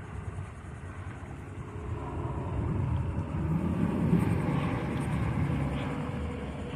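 A boat's motor rumbling as it passes, growing louder from about two seconds in, loudest around four seconds, then easing off.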